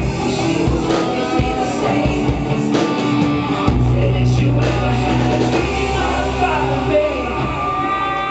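A live rock band playing, with guitar over sustained bass notes and drum hits.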